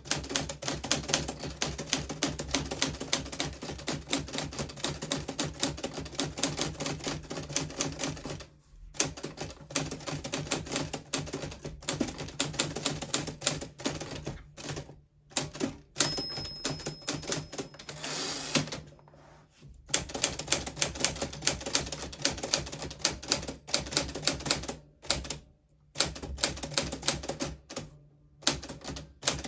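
1940s Smith Corona Silent manual typewriter being typed on steadily, rapid runs of key strikes broken by a few short pauses. About halfway through the margin bell rings once, followed by a carriage return.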